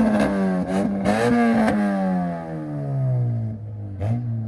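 A car engine revved hard and held high for a moment, then its pitch falls steadily as the revs wind down.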